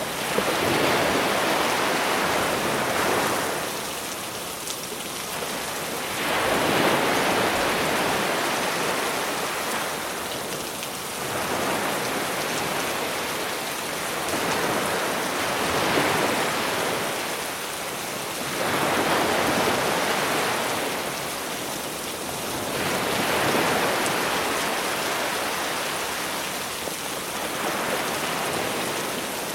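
Sea waves breaking and washing up the shore, swelling about every five or six seconds, under a steady hiss of rain.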